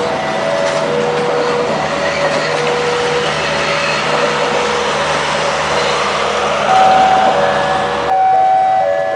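A passenger train running past at a railway level crossing, its rumble and wheel noise mixed with the crossing's warning signal of repeating two-note tones. The train noise cuts off suddenly near the end, leaving the crossing signal alone.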